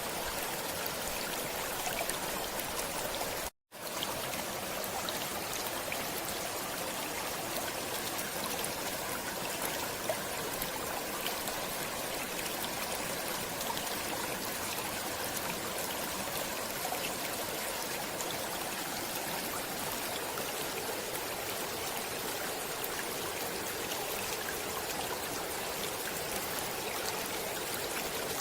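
Steady rushing and trickling of a flowing stream, an even wash of water noise. About three and a half seconds in it cuts out for a split second and then resumes.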